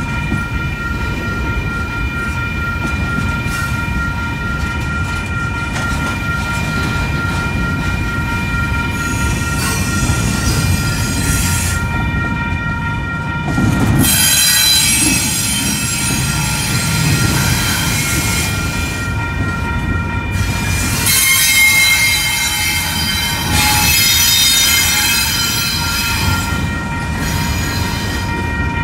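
Long double-stack intermodal freight train rolling past at a grade crossing: the steady rumble of the container cars, with bouts of high-pitched wheel squeal starting about a third of the way in and loudest in the second half. A crossing bell rings steadily underneath.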